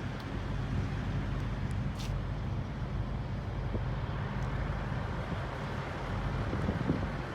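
A truck engine idling steadily with a low, even hum, and a single sharp click about two seconds in.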